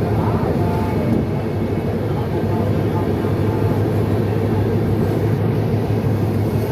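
Steady low rumble of a train running on the track.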